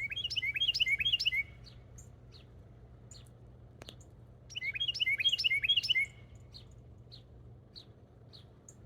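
Small songbird singing: two loud, rapid, jumbled bursts of song, each about a second and a half long, one at the start and one about four and a half seconds in. Short, thin, high single notes repeat between and after the bursts.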